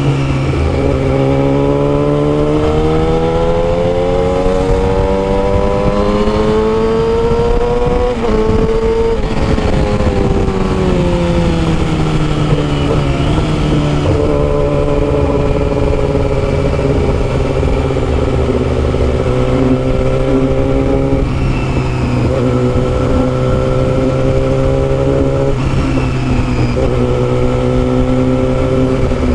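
Yamaha R6's 600 cc inline-four with a custom exhaust, heard while riding. The engine pitch climbs steadily for about eight seconds, dips briefly, and falls away as it slows. It then holds a fairly steady cruise with a couple of short dips later on.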